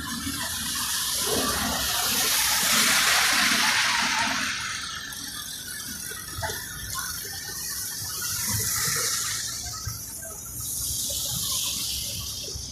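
Heavy rain with rushing, splashing water, a hissing noise that swells loud and fades away three times, loudest a couple of seconds in.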